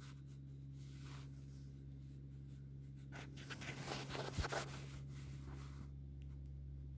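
Faint rubbing and scratching sounds over a steady low hum, loudest from about three to five seconds in, followed by a couple of light clicks near the end.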